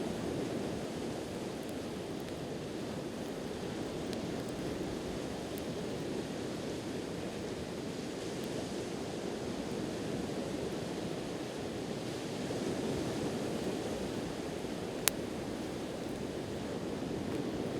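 Steady wash of ocean surf beside a wood campfire. Burning firewood gives one sharp pop about fifteen seconds in, with a couple of faint ticks earlier.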